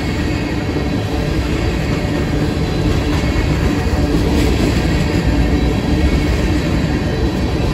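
Empty crude-oil tank cars of a freight train rolling past: a steady rumble of steel wheels on the rails.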